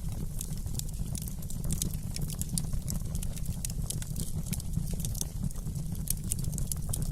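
Wood fire burning in a fireplace, crackling and popping with frequent irregular sharp snaps over a steady low rumble.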